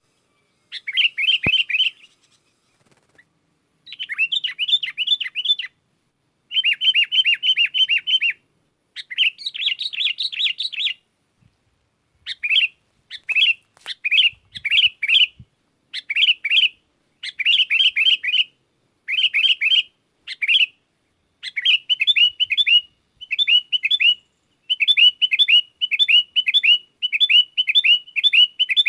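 Sooty-headed bulbul singing in rapid, chattering phrases of one to two seconds, repeated with short pauses that grow shorter in the second half.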